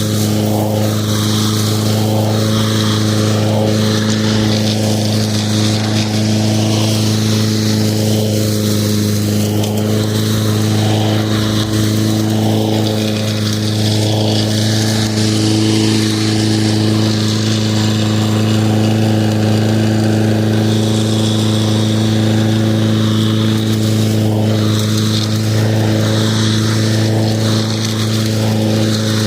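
Lawn mower running steadily at one constant speed: an even hum with a fixed pitch and no changes in level.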